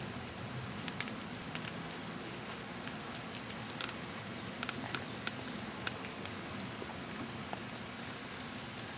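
Wet snow falling: a steady hiss with about eight scattered sharp ticks, most of them in the middle, as flakes or drops strike a surface.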